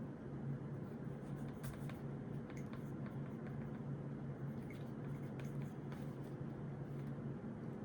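Pen writing on notebook paper, with faint scratches and small taps scattered through, over a steady low hum.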